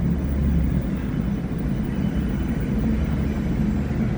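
Steady low rumble of a large vehicle running close by.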